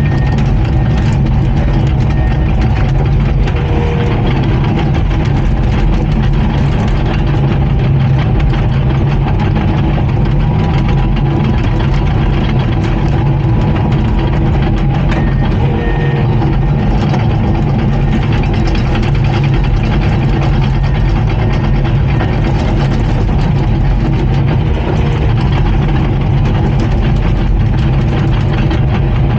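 Komatsu D39PX bulldozer's diesel engine running steadily.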